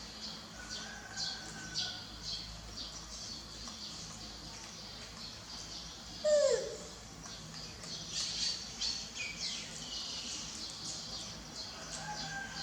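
Bird-like chirping, many short high chirps in quick succession throughout. About six seconds in there is one louder falling call, a short downward-gliding note.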